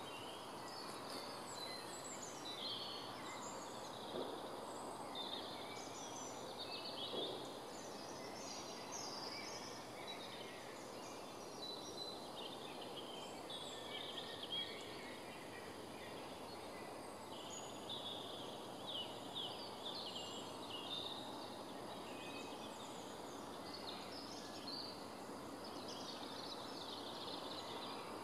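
Several songbirds singing, with many short chirps and trills scattered throughout, over a steady background hiss.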